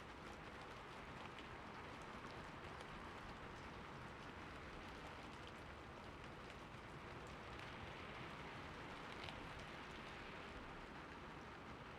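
Steady heavy rain falling, an even hiss with scattered individual drops ticking through it.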